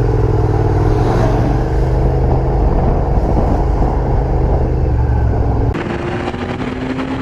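A motor vehicle's engine running steadily over road noise. Near the end the sound changes abruptly to a thinner engine note with a light clicking.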